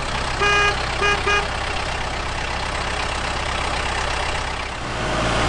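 Motor vehicle engine running steadily, with three short horn beeps between about half a second and a second and a half in.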